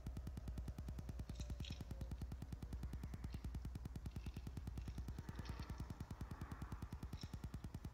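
Low, steady rumble of the lighted Canadian Pacific Holiday Train's cars rolling slowly past, under a fast, even pulsing, with a few brief high chirps scattered through.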